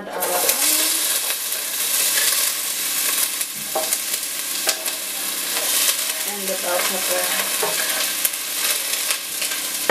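Sliced red onion and yellow bell pepper sizzling steadily as they fry in a hot pot, the sizzle starting as they are scraped in from the cutting board.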